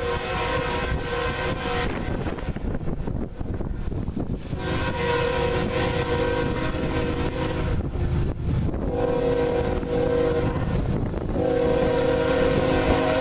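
Approaching diesel locomotive's multi-chime air horn sounding four blasts: long, long, short, then a long one still sounding at the end. This is the grade-crossing warning pattern. Under it is a low rumble that grows louder as the train nears.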